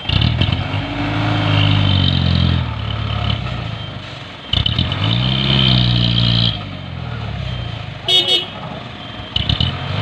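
Isuzu Giga dump truck's diesel engine revving hard twice, each surge rising and falling over about two seconds, with a lower idle between them.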